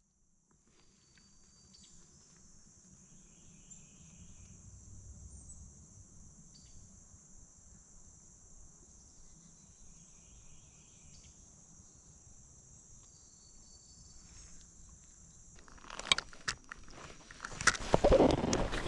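Steady high-pitched insect chorus, with a few loud knocks and handling bumps near the end.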